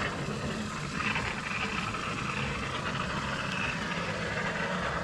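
Machinery running steadily: a low hum with a steady hiss over it.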